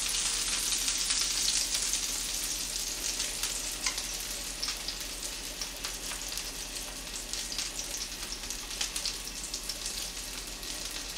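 Leftover jeon (Korean pan-fried fritters) sizzling in oil in a frying pan as they are reheated, a steady crackling hiss with small pops while they are turned with chopsticks. The sizzle eases slightly after the first couple of seconds.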